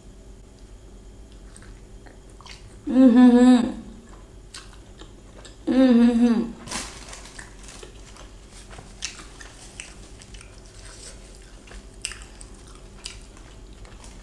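Close-miked eating of a soft, sauce-dipped paneer momo: wet chewing with many small mouth clicks and smacks. Two short, loud vocal sounds, each under a second and falling in pitch, come about three and six seconds in.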